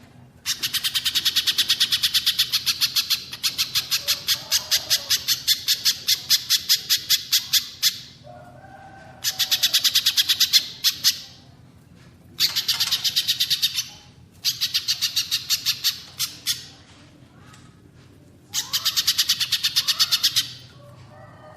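Recorded bird song of a little spiderhunter and a cililin: runs of sharp notes repeated several times a second, coming in bursts of two to four seconds with short pauses between them.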